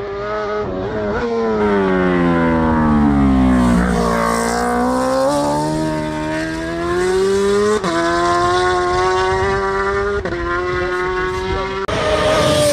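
High-revving racing motorcycle engine: the pitch falls for a few seconds, then climbs slowly again. Sharp breaks about eight, ten and twelve seconds in sound like gear changes as the bike pulls away.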